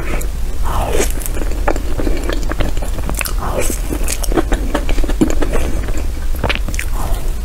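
Close-up mouth sounds of someone eating soft matcha cream cake: wet chewing and lip smacks, over a steady low hum.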